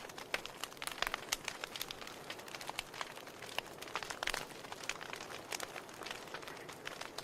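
Logs burning in a fireplace, crackling: irregular sharp pops and snaps over a soft steady hiss.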